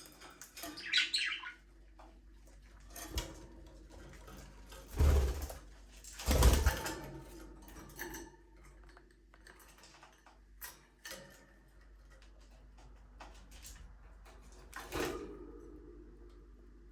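Budgerigars chirping and twittering in short scattered calls, with two loud rustling bursts about five and six and a half seconds in and a smaller one near the end.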